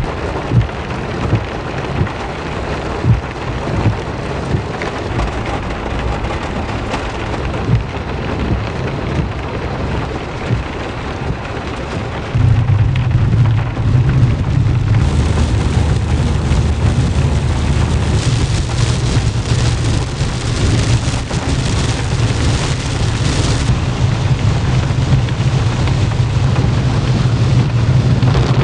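Heavy rain falling steadily, with scattered sharper drop hits early on. About twelve seconds in, a low steady rumble comes in and the whole sound gets louder.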